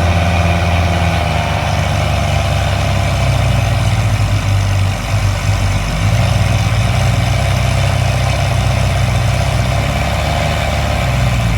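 Tractor diesel engine running steadily and loudly, with a brief dip about five seconds in.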